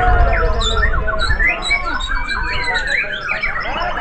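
Several white-rumped shamas (murai batu) singing at once in competition, a dense tangle of overlapping whistled phrases and rapid trills, over a low background rumble.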